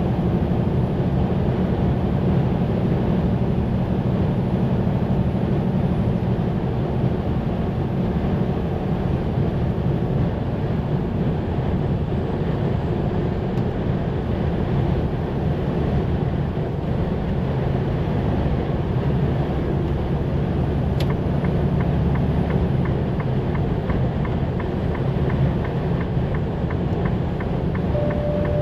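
Semi-truck's diesel engine and road noise heard from inside the cab while driving at highway speed, a steady rumble. A click about three-quarters through, then a fast regular ticking, and a short beep near the end.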